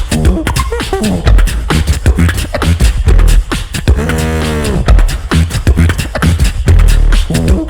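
Live beatboxing: heavy bass kicks and sharp snare-like hits in a driving beat. Near the middle, a sung vocal note is held for about a second, bending up and falling back.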